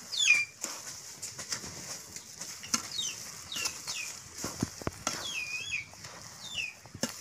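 A bird calling with short, downward-sliding chirps, about six of them, the one around five seconds in longer and wavering. Under it come scattered scrapes and knocks of a ladle stirring a thick sugar-and-semolina mix in a metal pan.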